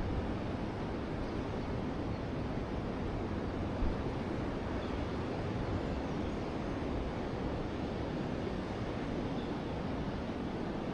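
River water flowing steadily, a continuous rushing with most of its weight low down, with one brief low thump about four seconds in.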